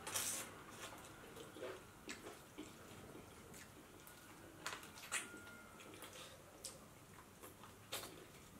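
Faint, wet chewing and lip-smacking of people eating chicken curry and rice by hand, with scattered short clicks and smacks.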